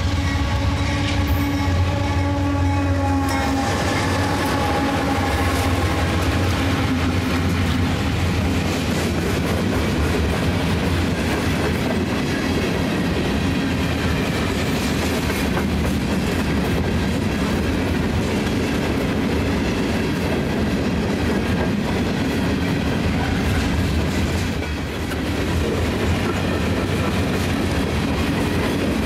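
Diesel freight train passing close by: Union Pacific locomotives (a GE AC4400CW and EMD SD70M and SD70ACe units) running by with a steady low engine rumble, then empty hopper cars rolling and clattering over the rails. A horn sounds in the first few seconds, its pitch sagging slightly as it fades.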